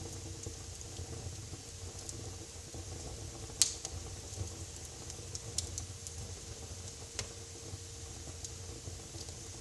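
Wood fire burning in a fireplace, crackling with scattered sharp pops, the loudest about three and a half seconds in, over a steady low rumble.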